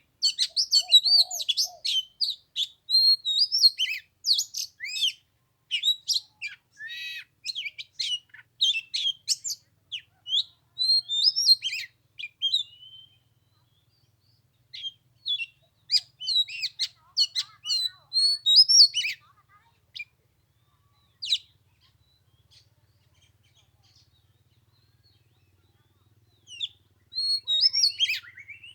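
Oriental magpie-robin singing: quick runs of varied, high whistled notes, dense for the first half and then sparser, with a pause of several seconds before a last burst near the end.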